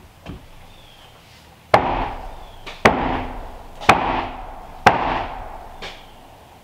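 Four heavy blows of a tool striking wood, about a second apart, each ringing out briefly, then a lighter fifth knock near the end.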